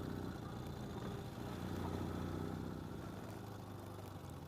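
Ural sidecar motorcycle's air-cooled flat-twin engine running steadily at low road speed, getting a little quieter near the end.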